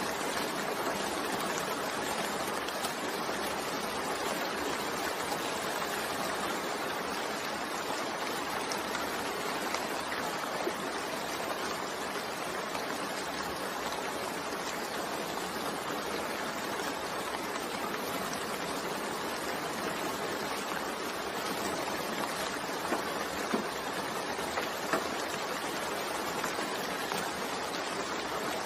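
Steady rainfall, a continuous hiss of rain with a few faint drips and ticks standing out now and then.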